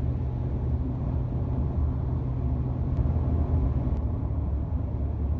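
Steady low road and engine rumble inside a Honda Odyssey minivan cruising on the highway, with two faint ticks about three and four seconds in.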